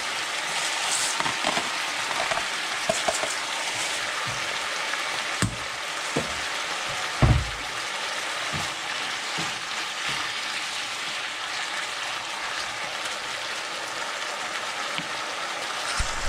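Sliced pork liver sizzling steadily in oil and marinade in a nonstick pan, with a few short low knocks, the loudest about seven seconds in.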